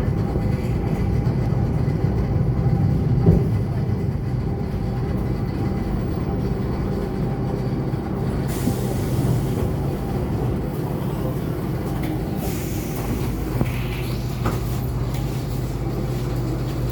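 ET2 electric train running, a steady hum with a short knock about three seconds in. A high hiss starts about eight seconds in and comes again a few seconds later.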